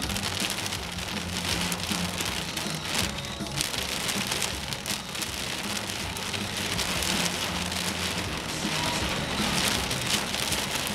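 Heavy rain pelting a vehicle, a dense steady patter of countless drops, with a low steady hum underneath.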